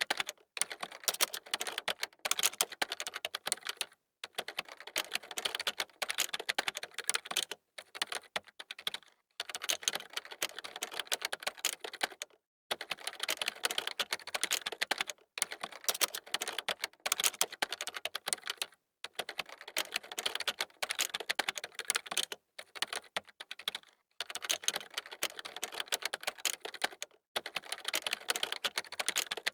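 Fast typing on a computer keyboard: dense runs of key clicks, each a few seconds long, with short pauses between them.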